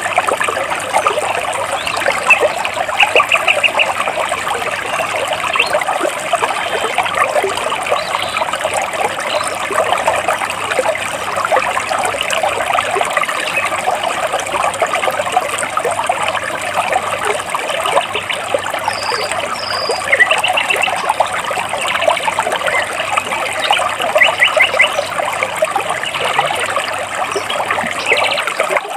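Water flowing and trickling steadily between large rocks. Over it, birds chirp in short, rapid trills every few seconds.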